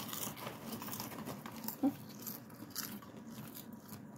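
Someone chewing kettle corn close to the microphone: soft, irregular crunches and small clicks, with a short hum about two seconds in.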